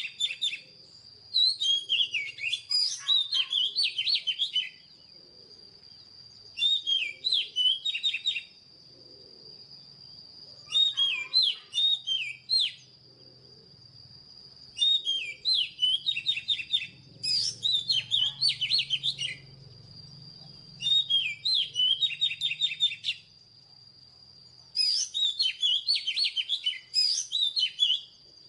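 Oriental magpie-robin singing: about seven phrases of rapid, varied whistled notes, each a couple of seconds long, separated by short pauses. A thin, steady high tone runs beneath the song throughout.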